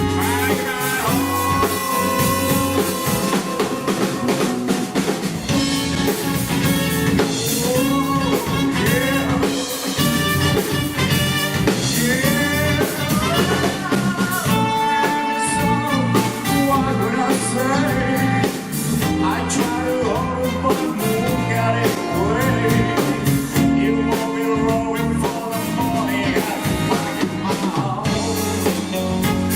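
Live band music, playing continuously.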